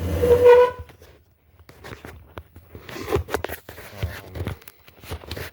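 A short electric whine from the RC truck's suspension servos as they move. Irregular plastic clicks and handling rustle follow while the truck and transmitter are worked by hand.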